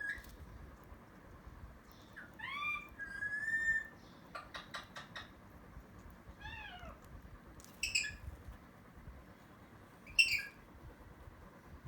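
A cat and a parrot calling at each other: a series of short meow-like calls with bending pitch, a quick run of clicks about four seconds in, and two short harsh calls later on, the last of which is the loudest.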